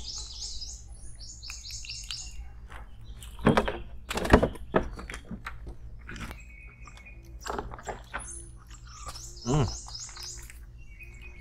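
A songbird singing a quick run of about six high repeated notes, twice. In between come a few sharp knocks, the loudest sounds here, over a steady low rumble.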